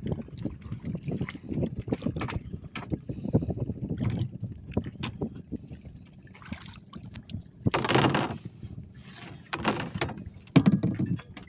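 Water splashing and lapping around a small fishing boat, with irregular knocks, and a louder splash about eight seconds in.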